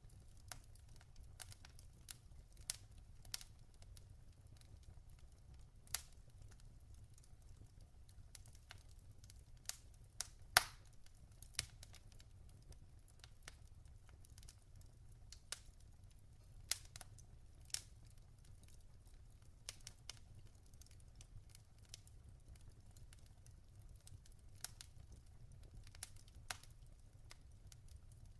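Burning wood logs in a fireplace crackling: sharp, irregular pops and snaps, one louder pop about ten seconds in, over a faint low rumble.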